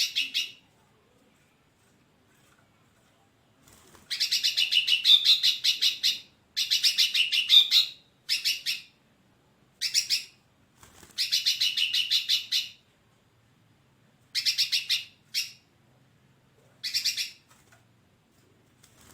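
Hairy-backed bulbul calling: runs of rapidly repeated, short, high notes, about ten a second, in bursts from half a second to two seconds long with silent pauses between them.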